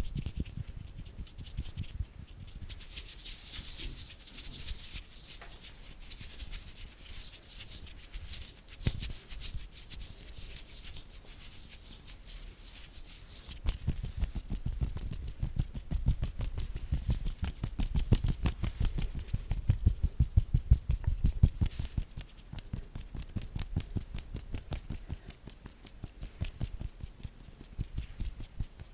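Bare hands rubbing together close to the microphone with a dry hiss, then, about halfway through, rapid finger tapping and patting with quick soft thumps that die down near the end.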